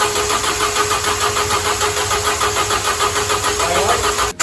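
Starter motor cranking a freshly rebuilt four-cylinder petrol engine over with a steady, even rhythm and no firing, spun over with the ignition disabled to bring oil up to the head. It sounds healthy. The sound breaks off briefly near the end.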